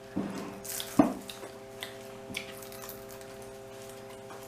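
Soft wet clicks and ticks of food being handled and eaten by hand, with one sharper knock about a second in, over a steady low hum.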